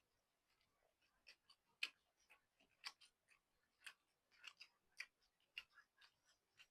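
Faint, close-miked eating sounds: irregular soft clicks and smacks of a mouth chewing noodles, one to three a second, a few louder ones in the middle.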